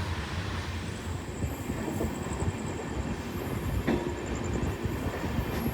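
Running noise of a moving passenger train heard from inside a sleeper coach: a steady low rumble of wheels on the track, with a single sharp knock about four seconds in.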